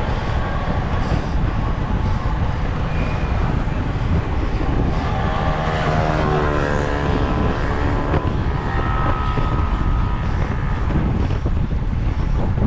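Wind buffeting the microphone in a steady low rumble, with a motor vehicle's engine passing about halfway through, its pitch rising and falling.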